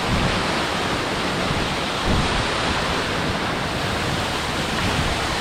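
Steady rush of a waterfall and its creek close by, with low buffeting on the microphone, the strongest about two seconds in.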